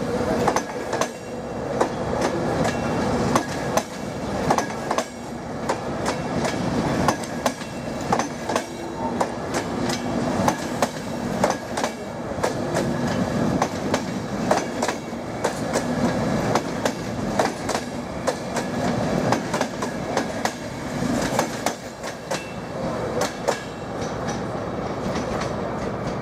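Passenger train coaches rolling past on the rails, the wheels giving a continuous run of sharp clacks over the rail joints on top of a steady rumble that eases off near the end.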